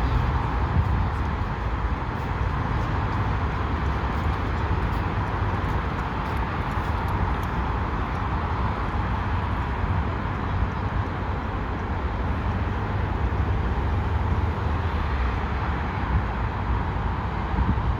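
Steady rush of wind on the microphone and rolling road noise from a moving bike, with a few faint ticks in the first several seconds.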